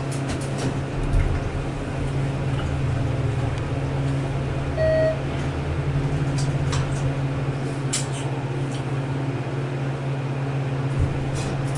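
Elevator car travelling down, with a steady low hum from the drive and ride. About five seconds in comes a single short electronic beep, and there are a few light clicks and one low bump.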